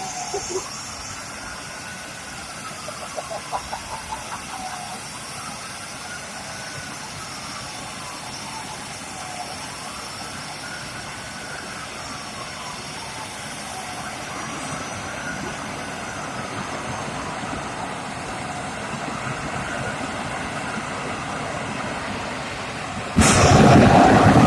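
Wailing siren that rises and falls slowly, about once every three and a half seconds. A sudden, much louder rush of noise cuts in near the end.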